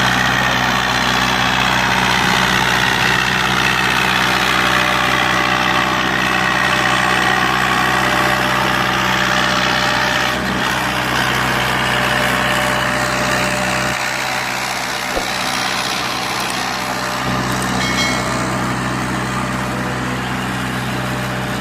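Hindustan 50 tractor's diesel engine running steadily while pulling a loaded sugarcane trolley.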